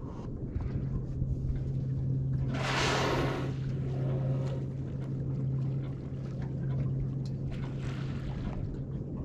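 A boat's motor idling with a steady low hum. About three seconds in, a loud one-second rushing whoosh, a gray whale blowing at the surface, and a fainter whoosh near the end.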